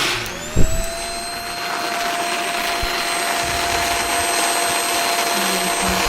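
XIEYUZEUS handheld bed vacuum cleaner switched on: its motor whine rises in pitch over about half a second, then runs steadily with a strong rush of air. A thump about half a second in.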